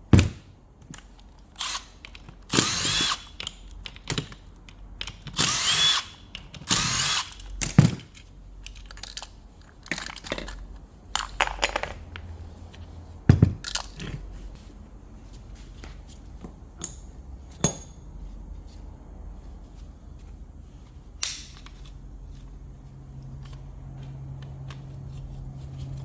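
Workshop work on an alternator: several short bursts of a power tool, each about a second long, in the first half, mixed with sharp metal knocks and clanks of parts being handled.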